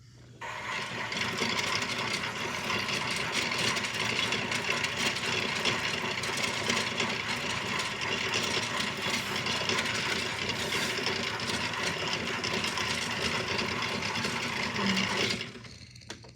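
Toy washing machine's small electric motor running steadily, starting about half a second in and cutting off about a second before the end.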